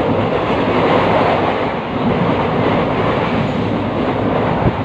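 Indian Railways passenger train running, heard from inside the coach: the steady rumble and rattle of the carriage and its wheels on the track, with one sharp knock near the end.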